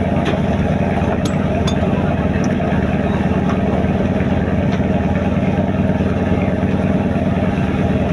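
A fishing boat's engine running steadily, a loud continuous low drone with a few faint clicks over it.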